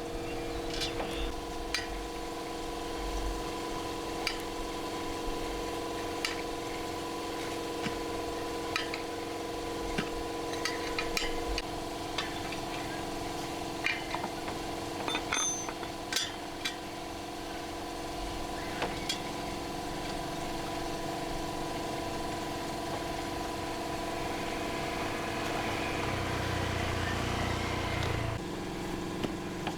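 A steady machine hum of several held tones, with scattered sharp metallic clicks and clinks of tools being handled.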